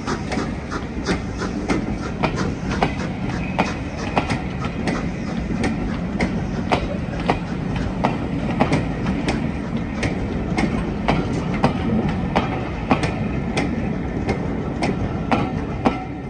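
Railway passenger coaches rolling past, their wheels clattering over rail joints in a steady run of sharp, irregular clicks over a continuous rumble.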